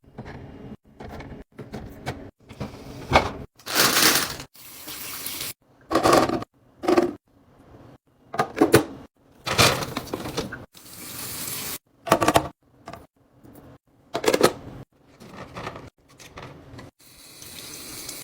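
Choppy run of short handling sounds cut one after another, with abrupt starts and stops: rustling and clattering bursts, some with a stretch of splashing or running liquid, as of a fridge being cleaned and restocked.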